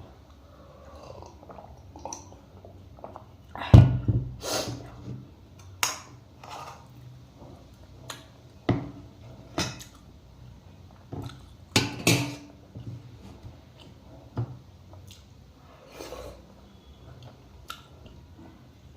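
Close-up eating sounds: chewing and mouth noises mixed with irregular clinks of dishes, the loudest about four seconds in and again near twelve seconds.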